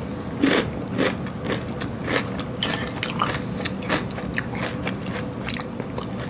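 A person chewing a mouthful of bok choy Caesar salad with croutons, close up: irregular crisp crunches, a few a second.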